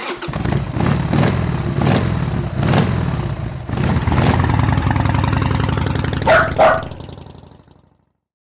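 Cruiser motorcycle engine starting and revving in a few surges, then running steadily before fading out. Two short, sharp sounds come over it about six seconds in.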